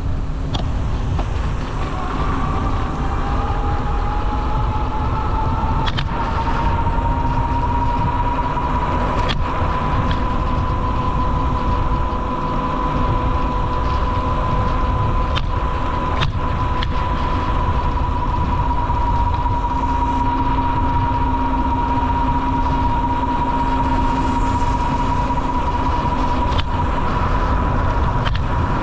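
Wind rumbling on the microphone of a moving rider, with a steady high whine that rises in pitch over the first several seconds and then holds, and a few sharp clicks.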